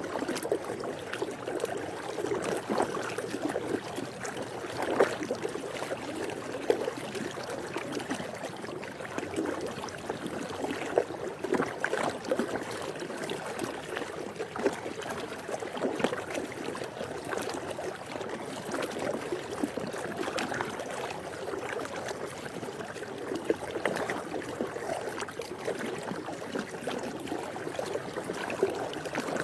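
Swimming pool water moving steadily, a continuous wash of trickling with many small splashes throughout.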